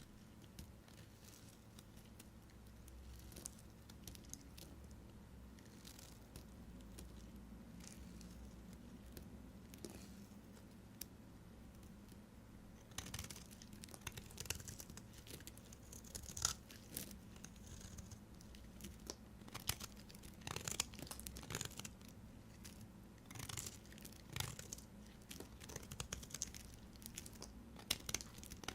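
Knife cutting through bars of soap, with crisp crunching and scraping cuts. The cuts are faint and sparse at first and come thick and sharp from about halfway on.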